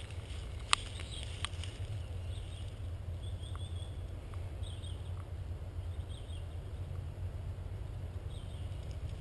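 Steady low rumble with two sharp clicks about a second in, and faint high chirps of birds several times over.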